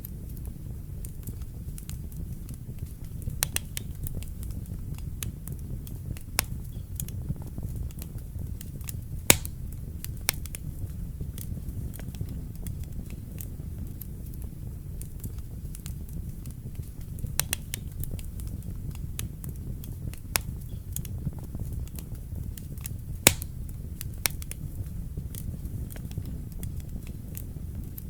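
Wood fire burning in a fireplace: a steady low rumble of the flames with scattered sharp crackles and pops, two of them louder, about nine seconds in and about twenty-three seconds in.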